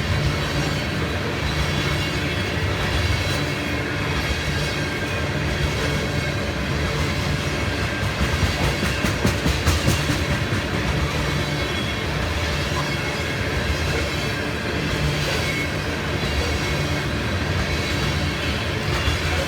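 Loaded ethanol freight train rolling past, its steel wheels rumbling and clacking over the rails, with a run of sharper clacks about eight seconds in.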